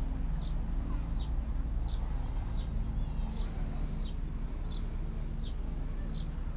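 A bird calling with short, high, falling chirps, evenly repeated about three every two seconds, over a steady low rumble.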